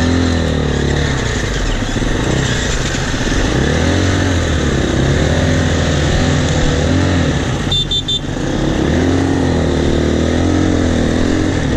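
Single-cylinder four-stroke dirt bike engine of a 2018 KTM 350 EXC-F, revving up and down again and again under throttle on the trail, with wind noise over it. About eight seconds in it dips briefly with a few sharp clicks.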